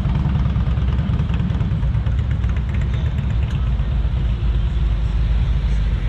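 A car engine running with a steady, deep rumble.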